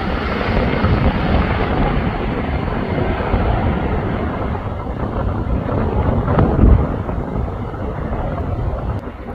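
Jet airliner engines at takeoff: a loud, broad rushing noise that slowly fades and dulls as the aircraft climbs away.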